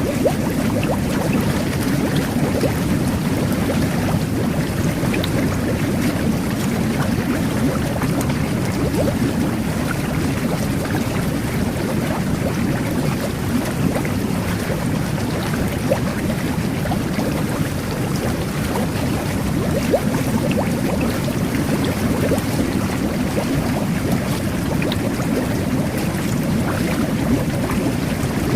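Jet bath (whirlpool bath) running: a steady churning rumble of water and air bubbles from the jets, with faint scattered bubble pops.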